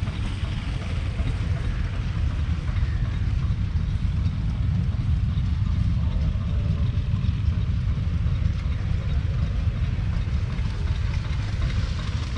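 Ford 7610 tractor's 4.4-litre four-cylinder diesel engine running steadily.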